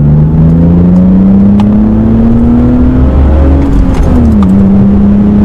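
BMW 325ti E46 Compact's 2.5-litre straight-six, fitted with a sport exhaust, heard from inside the cabin under full acceleration. Its pitch climbs steadily, drops briefly with an upshift about four seconds in, then pulls again in the next gear.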